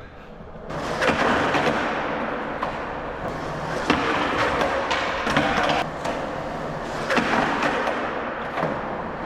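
Skateboard wheels rolling over concrete, the rolling noise swelling three times, about three seconds apart, with sharp clacks of the board in between.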